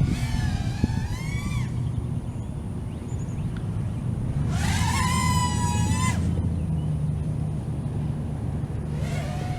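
Brushless motors and propellers of a 5-inch FPV racing quadcopter whining, the pitch gliding up and down with the throttle in three bursts: at the start, in the middle and near the end. A steady low rumble runs underneath.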